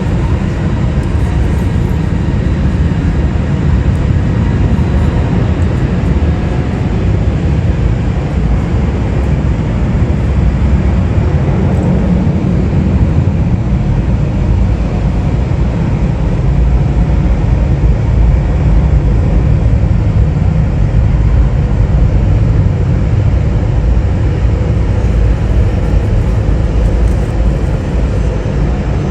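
Jet aircraft engines producing a steady low roar that swells slightly toward the middle, with a faint thin whine above it.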